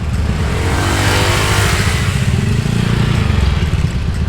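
Motorbike engine running under way with road and wind noise, a louder swell of engine and tyre noise building from about half a second in and fading by about three seconds.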